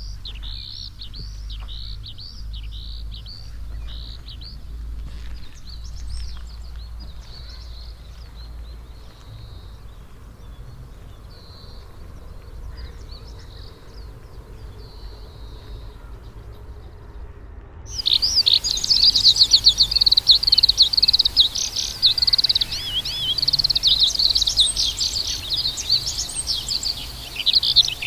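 Birds chirping and singing in quick repeated notes over a steady low rumble. About two-thirds of the way through, the sound switches abruptly to much louder, denser birdsong, with many chirps overlapping.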